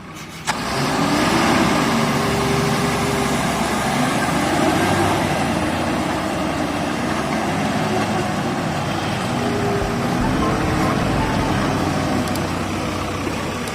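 Heavy diesel engine running, its pitch rising and falling as it revs up and down; it comes in suddenly about half a second in.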